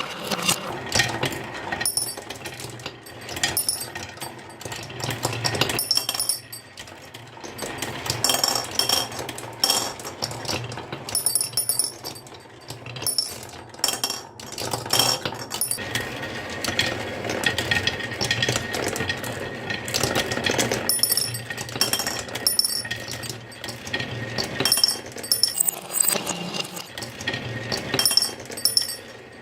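Marbles rolling and clattering down a wooden HABA marble run: a steady rolling rumble under rapid clicking, with frequent short ringing clinks as marbles strike one another and the track.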